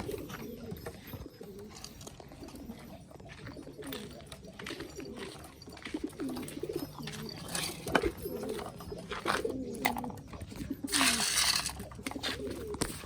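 Domestic pigeons cooing, several birds overlapping in repeated low, bending coos, with scattered sharp clicks and a brief louder rustling burst near the end.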